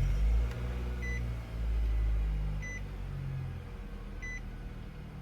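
2024 Nissan Sentra's dashboard warning chime sounding three times, about every second and a half, over a low rumble from the car.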